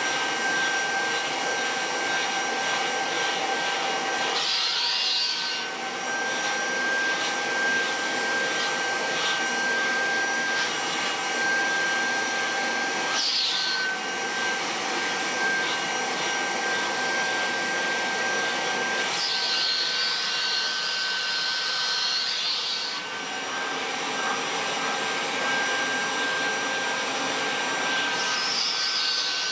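Kirby Heritage II upright vacuum cleaner running, with a steady high whine over the rush of air. Four times the whine drops out and a sharper hiss takes over for a moment, the longest stretch about two-thirds through.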